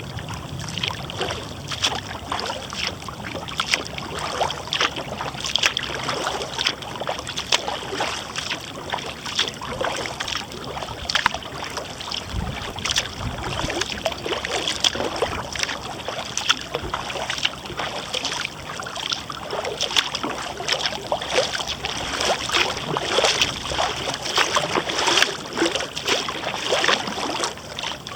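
Kayak paddling: the paddle blades dipping in and water splashing and dripping in many quick, irregular splashes.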